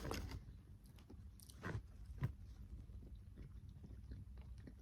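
A person chewing food quietly, with a few soft clicks.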